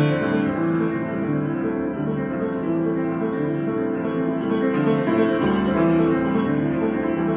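Solo piano improvisation: held chords and melody notes, with a louder attack right at the start.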